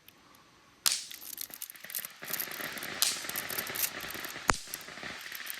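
Rustling and crackling of a box of bang snaps (snappers) being handled and opened, with a few sharp clicks.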